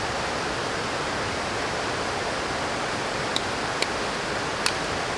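Steady rushing of running water, with a few faint ticks between about three and five seconds in.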